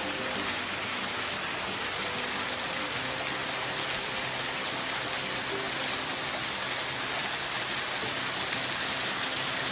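Steady rushing of a waterfall, an even, unbroken water noise, with faint background music under it.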